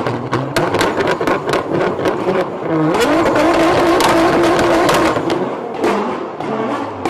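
Car engine running at high revs. Its note glides up about three seconds in and holds, amid a string of sharp clicks.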